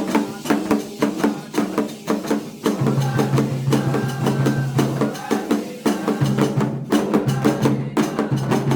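Candomblé ceremonial percussion music: drums with a sharp, clicky wood-block-like struck pattern in a steady rhythm. A low sustained tone sets in about three seconds in.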